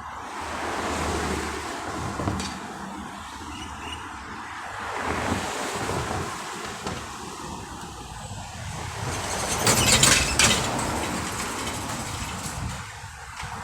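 Road traffic passing by on a busy road, rising and fading several times, the loudest pass about ten seconds in, with wind noise on the microphone.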